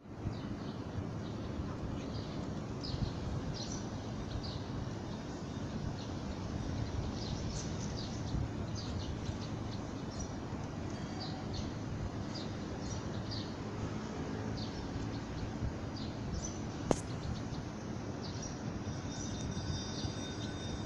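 Small birds chirping in short, high notes again and again over a steady low outdoor rumble, with one sharp click about seventeen seconds in.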